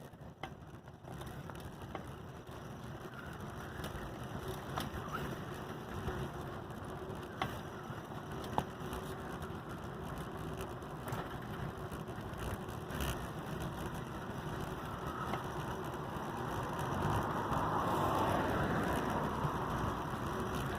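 Steady rolling and rushing noise while riding an adult tricycle on the road, with a few sharp ticks, swelling louder toward the end.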